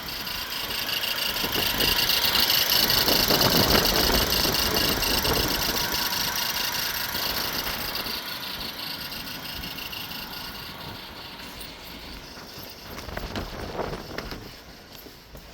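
2020 LDV G10's 2.0-litre turbocharged four-cylinder petrol engine running on test. It is loudest a few seconds in, then grows gradually quieter, with a couple of brief rises near the end.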